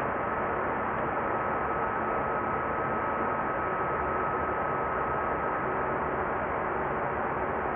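Steady rushing flight-deck noise of an Airbus A320-200 in flight, with a thin steady high tone running through it.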